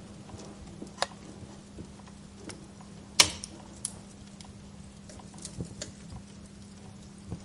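Wood fire crackling: irregular small pops and snaps, with one sharp, loud pop about three seconds in, over a faint steady low hum.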